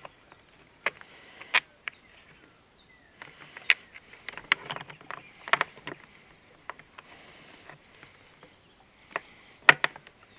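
Irregular clicks, knocks and short bouts of scraping and rustling from hand work fitting parts to a motorcycle, with the sharpest click near the end.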